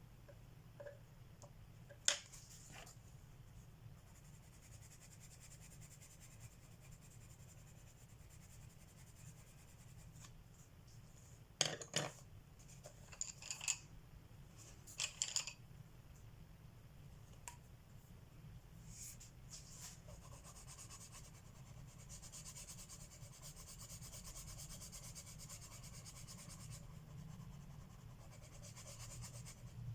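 Colored pencil scratching across paper, a steady scratchy shading sound that grows through the second half. A few sharp clicks and taps come earlier, about 2 seconds in and again around 12 to 15 seconds.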